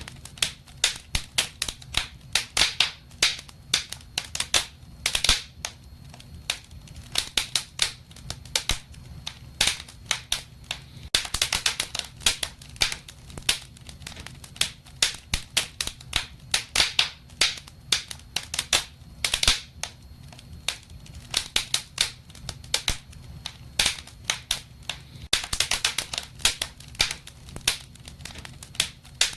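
Wood fire burning in a fireplace, crackling with many irregular sharp pops and snaps that come in denser clusters, over a faint low steady hum.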